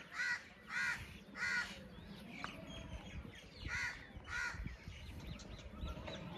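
Harsh bird calls in short series: three calls in the first two seconds, a pause, then two more about four seconds in.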